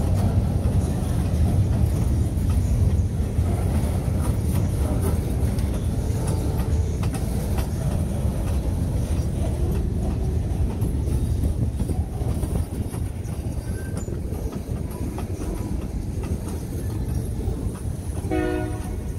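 Freight cars (gondolas, a tank car and covered hoppers) rolling past: a steady rumble of steel wheels on the rails, with scattered clicks. A brief pitched tone sounds near the end.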